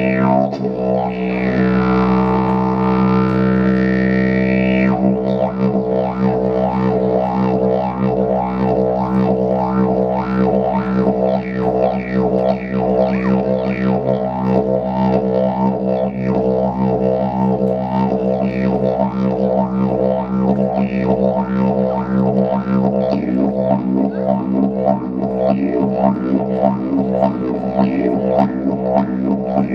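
Didgeridoo playing a continuous low drone. For the first few seconds the tone sweeps in vowel-like glides, then it settles into a quick, steady rhythmic pulsing over the held note.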